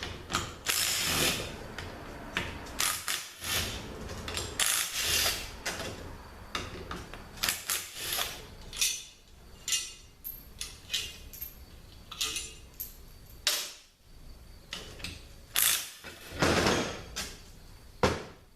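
Hand ratchet wrench clicking in irregular runs as bolts are backed out of a THM-350 transmission pump, with occasional clinks of metal parts being handled.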